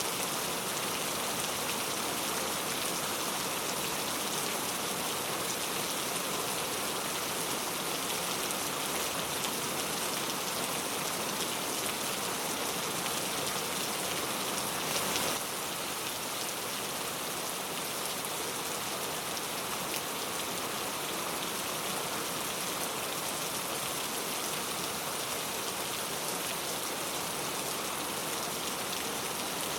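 Heavy rain falling steadily, a dense, even hiss of drops. About halfway through there is a brief swell, after which the rain goes on slightly quieter.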